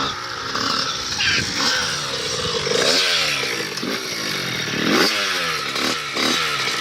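Small dirt bike engine revving, its pitch rising and falling several times.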